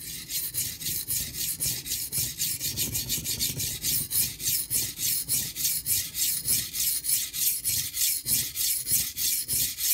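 A high-carbon stainless steel knife blade stroked rapidly back and forth across a coarse 180-grit Nubatama Ume water stone, making a steady rhythmic scraping of about four to five strokes a second as the steel grinds against the wet stone.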